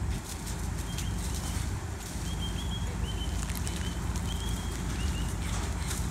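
Outdoor background of a steady low rumble, with a run of about eight short, high chirps from a small bird between about one and five seconds in.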